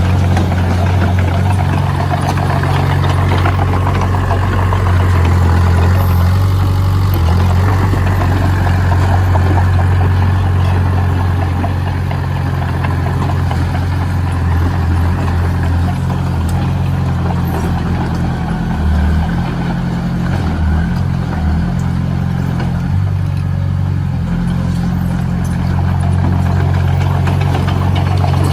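Heavy construction machine's engine running steadily, with a deep, low drone.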